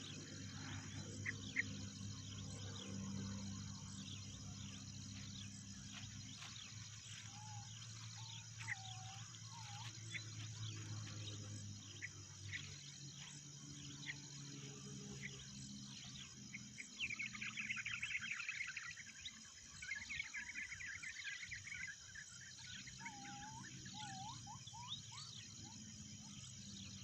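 Forest birds calling and chirping over a steady high insect drone, with a rapid chattering trill about two-thirds of the way through. A faint low hum underneath stops about halfway.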